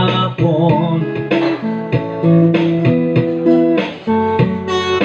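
A guitar strums and plucks chords at a steady pace, with a sung note ending in the first second.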